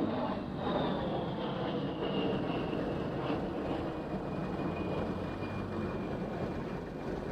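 Jet aircraft flying past, its engine rumble steady under a high turbine whine that falls in pitch over the first few seconds and then holds.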